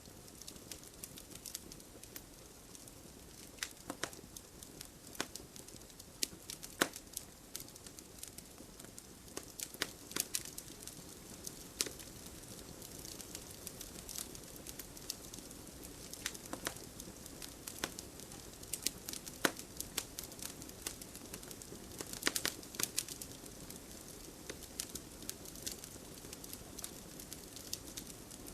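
Wood fire in a fireplace crackling: irregular sharp pops and snaps over a low steady hiss.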